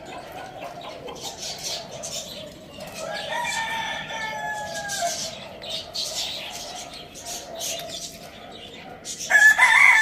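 Rooster crowing: one long crow about three seconds in, then a louder crow starting near the end. Short chirps and clucks from other birds sound throughout.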